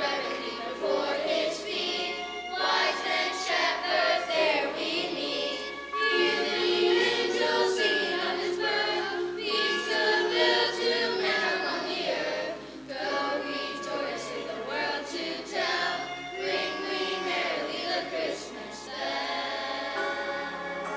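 Choir singing a Christmas song, the voices moving from note to note without a break.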